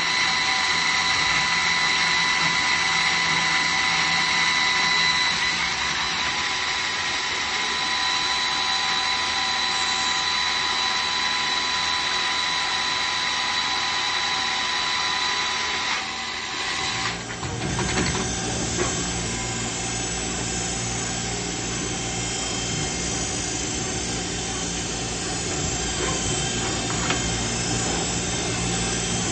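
2001 Traub TNL 26 CNC Swiss-type lathe running, with a steady high whine. About two-thirds of the way through the sound changes to a lower, fuller hum made of several steady tones.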